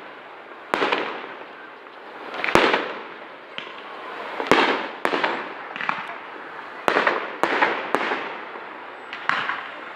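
Fireworks exploding: about eight sharp bangs at irregular intervals over ten seconds, several coming in quick succession from the middle on, each followed by a fading echo.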